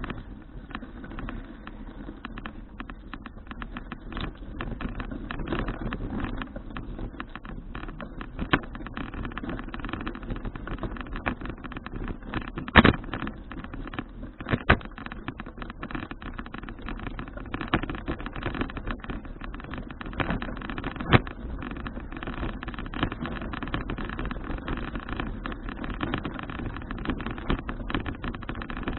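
Folding bicycle being ridden: a steady rumble of tyres and wind, with frequent sharp rattles and knocks from bumps in the road. The loudest knock comes a little before halfway.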